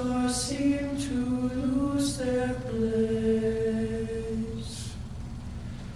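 Men's a cappella group singing a slow, soft passage of the song, with a long held note through the middle that fades out near the end.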